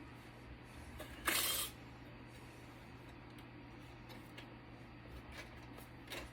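Faint handling sounds of a screw being removed from a network switch's circuit board: one brief hissing, rasping burst a little over a second in, then a few light clicks over a low steady hum.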